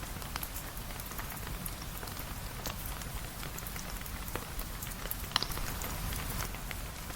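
Steady rain hiss with scattered sharp drips and ticks, and a louder drop about five seconds in.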